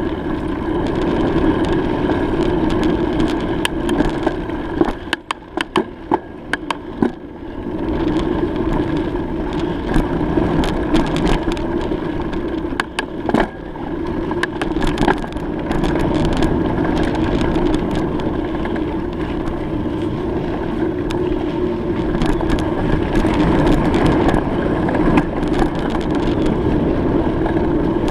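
Steady riding noise from a bike on the move: a continuous rumble with a hum, scattered with short rattles and knocks, easing off briefly twice.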